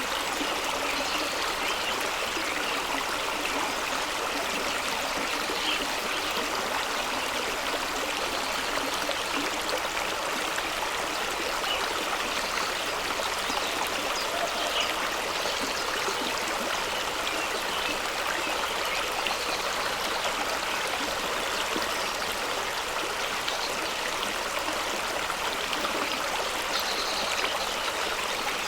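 Fast-flowing stream rushing and splashing over rocks, a steady even wash of water noise.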